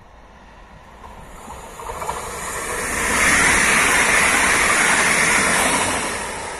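Newag Impuls electric multiple unit passing close by at speed: a rush of wheel and air noise that builds over the first three seconds, holds loud, and begins to fade near the end.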